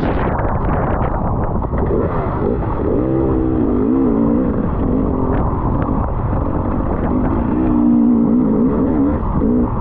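Enduro motorcycle engine running with its revs rising and falling, under heavy wind buffeting on the microphone.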